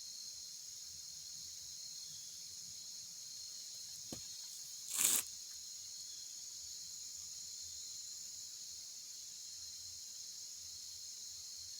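Steady high-pitched insect chorus, crickets or similar, shrilling without a break. About four seconds in there is a faint click, then a brief louder swish or rustle.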